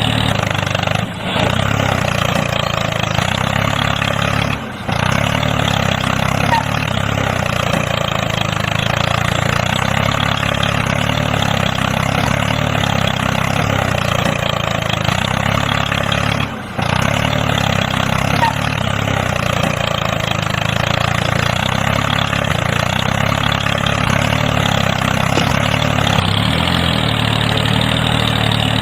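Engine running steadily at idle, with brief drop-outs a few times. The sound repeats about every twelve seconds, like a looped engine track.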